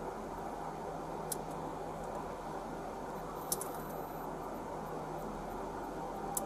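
Steady low hum and hiss of background noise, with three short, sharp clicks, the second and third louder than the first.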